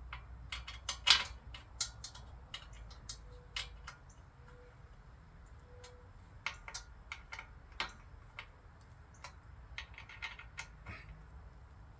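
Irregular sharp clicks and light metal knocks of hand tools and parts while bolts on an e-bike are tightened. They come thicker in the first couple of seconds, with one louder knock about a second in. Three faint short tones come a few seconds in.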